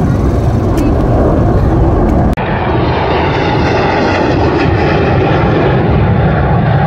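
Loud, steady jet noise from Blue Angels F/A-18 Super Hornets flying over, with an abrupt change in tone a little over two seconds in.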